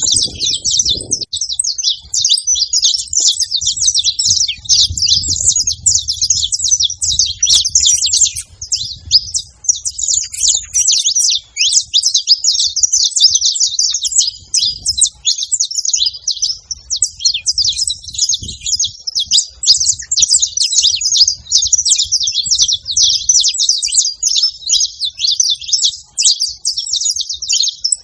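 Saffron finch singing: an unbroken stream of rapid, high chirps and trills.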